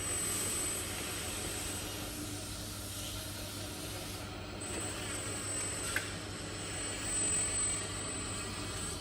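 1/14-scale radio-controlled Mercedes-Benz Arocs skip loader truck running: a steady mechanical hum and hiss with a thin high whine that drops out for a couple of seconds midway, and a single sharp click about six seconds in.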